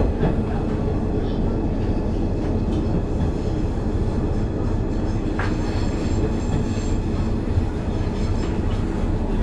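Sanriku Railway diesel railcar running slowly, heard from inside the cabin: a steady rumble of engine and wheels on the track.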